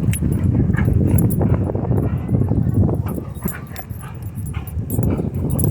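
Wind rumbling on the microphone, with a dog's short vocal sounds over it.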